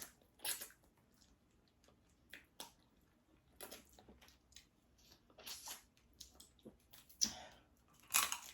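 Close-miked eating of a seafood boil: faint, irregular chewing and wet, squishy bites and smacks, a few at a time, with the loudest couple near the end.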